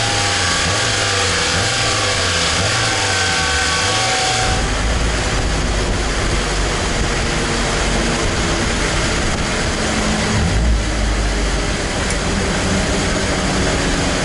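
Mazda MX-5 Miata race car's inline-four engine running at high revs, near 7,000 rpm, on a chassis dyno during a power run. About four and a half seconds in the engine note drops away and a loud, steady, deep rushing noise from the dyno carries on.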